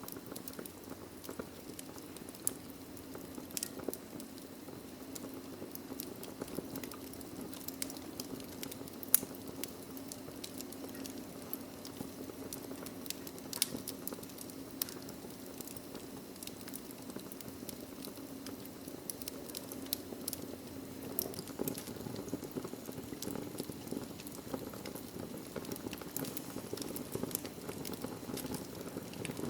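Logs burning in a fireplace, crackling: irregular sharp pops and ticks over a steady low rush of flame, with one louder pop about nine seconds in.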